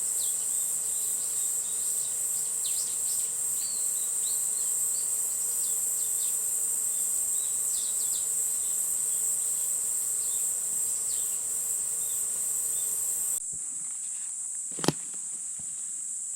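Steady high-pitched drone of an insect chorus, with short bird chirps scattered over it. The level drops suddenly near the end, where a single sharp click is heard.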